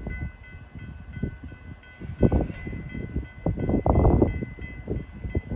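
BNSF freight train at a grade crossing: irregular low rumbling that swells and fades, loudest about halfway through, with faint steady high tones held throughout.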